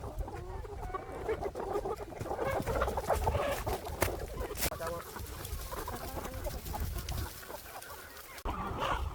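Chickens clucking, with a couple of sharp knocks about four seconds in.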